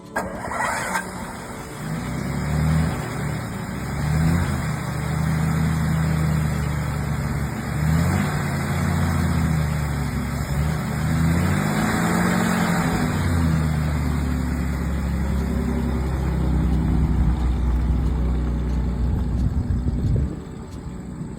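Car engine running, its pitch rising and falling through several revs, then dropping off about a second before the end.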